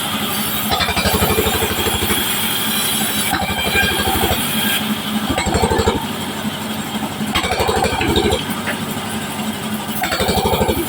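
Sawmill band saw running and its engine drone pulsing steadily while cutting waru wood, with the saw noise swelling and easing every couple of seconds.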